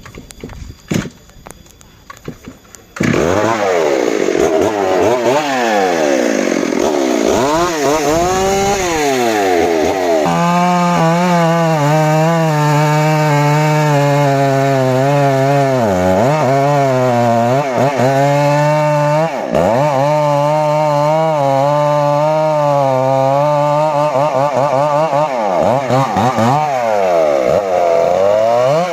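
Two-stroke chainsaw starting up about three seconds in and revving up and down. It then runs at a steady high speed, its pitch dipping briefly now and then as the chain bites into teak wood.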